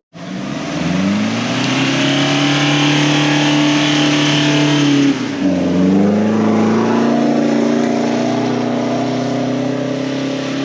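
Off-road jeep engine revved hard, climbing over the first two seconds and held high. It drops off sharply about five seconds in and revs straight back up, holding high.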